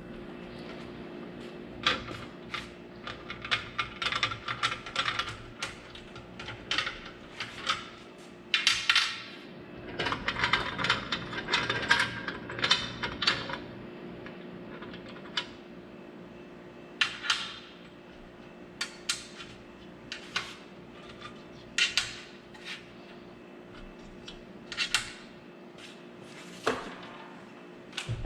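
Metal clanking, clicking and scraping as a miter saw is set onto a stand's mounting slides and the sliding captive bolts are worked into place, in irregular bursts over a steady hum.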